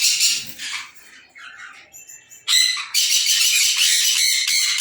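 Small pet conures squawking harshly: a loud burst of screeches at the start, a few quieter calls, then from about halfway a continuous run of loud screeching.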